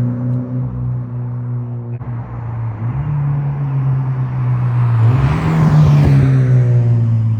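Subaru BRZ flat-four engine through an aftermarket exhaust, running at a steady low speed, then briefly rising in pitch and loudness about five seconds in before easing back down.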